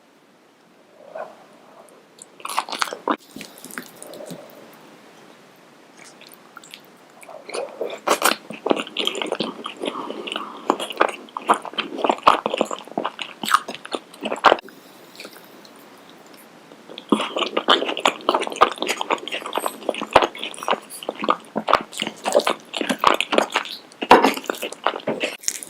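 Loud, close-miked crunchy chewing of Indian street food, in two long bouts of rapid crackling crunches: one starting about a third of the way in and one through the last third, with softer mouth sounds between.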